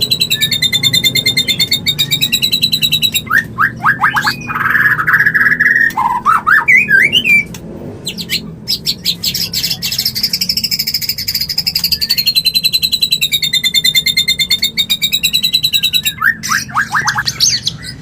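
White-rumped shama (murai batu) mating calls: long, very fast trills that waver around a high pitch, broken about a third of the way in by a burst of short falling and rising notes, then a second long trill and more short notes near the end. These are breeding-condition calls.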